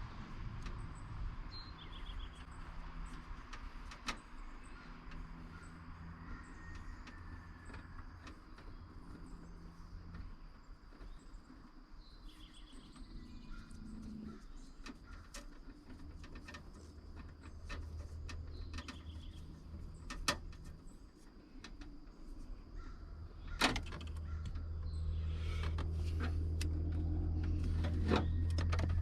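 Scattered plastic clicks and knocks from handling wiring and door trim on a pickup truck door, over a steady low hum that grows louder near the end.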